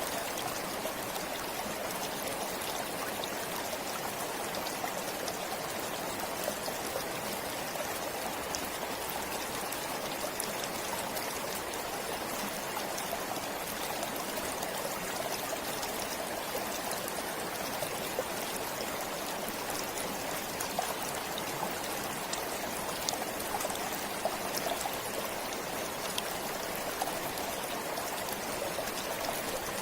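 Forest stream flowing steadily: an even rush of running water with small drips and splashes scattered through it.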